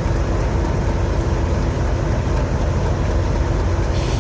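Diesel locomotive engine idling: a steady low rumble with a constant hum.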